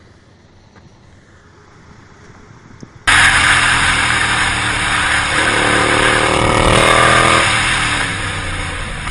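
Quiet for about three seconds, then a sudden cut to a loud rush of wind and a vehicle engine running at speed, with the engine note rising briefly in the middle.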